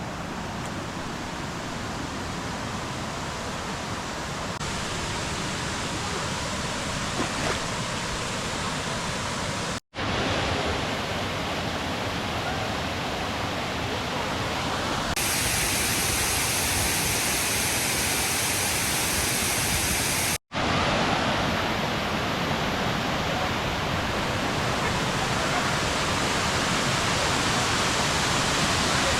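Waterfall pouring: a steady rush of falling water, broken by two sudden brief dropouts about ten and twenty seconds in.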